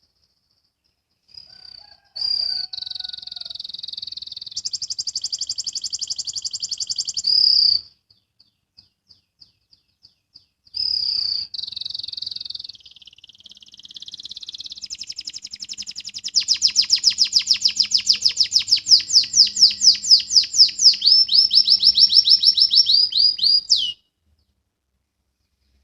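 Canary singing in two long phrases of rapid, high repeated notes. The second, longer phrase builds into a fast trill, the 'ngriwik' style that canary keepers train for.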